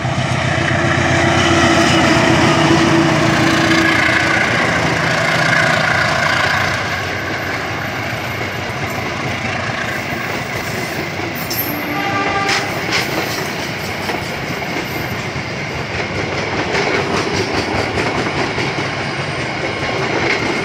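CC203 diesel-electric locomotive passing close by at speed, its engine loud for the first several seconds, then a long rake of passenger coaches rumbling and clattering past over the rail joints. A brief squeal about twelve seconds in.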